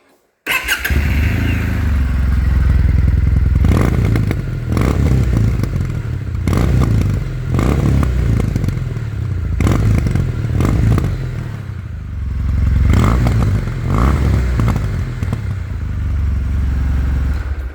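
Kawasaki W800's air-cooled parallel-twin engine starting and running through its exhaust silencers, which have a 10.5 mm hole drilled through the end to free up the exhaust note. The sound starts suddenly about half a second in, rises and falls in level throughout, and cuts off near the end.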